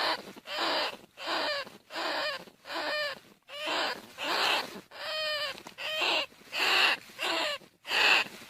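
Bandicoot rat calling: a rapid run of short, harsh squeals, about one and a half a second, each bending in pitch.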